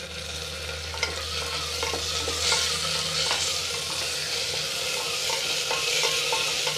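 Onions and ginger-garlic paste sizzling in hot oil and ghee in an aluminium pressure cooker while being stirred with a wooden spatula, which scrapes and taps against the pot. The sizzle grows a little louder after about two seconds.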